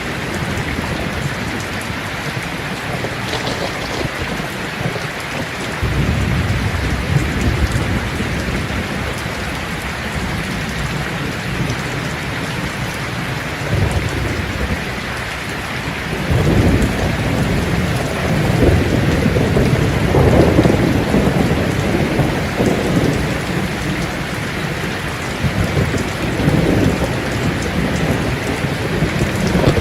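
Steady heavy rain hissing, with rolling thunder rumbling in low swells from about six seconds in and building again from about sixteen seconds, strongest around twenty seconds.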